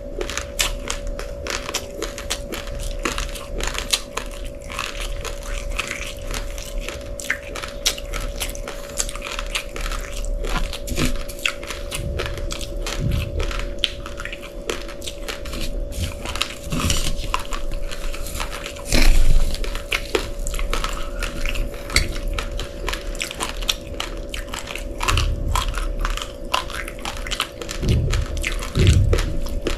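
Uncooked rice grains being crunched and chewed close to the microphone: a dense, irregular run of sharp crackling clicks, with a steady hum underneath.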